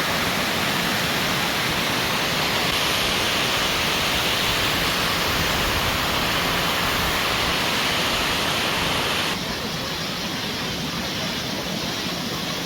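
Steady rush of falling water from a waterfall, a dense hiss with no lulls. Its tone and level shift abruptly about three seconds in and again near nine seconds.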